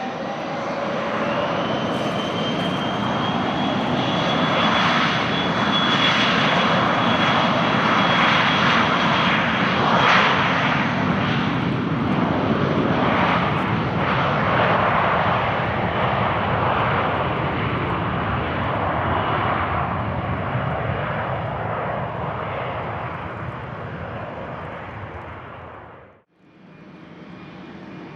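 Aircraft landing on a runway: engine noise with a high, steady whine builds, peaks, then slowly fades as it passes. It cuts off abruptly near the end.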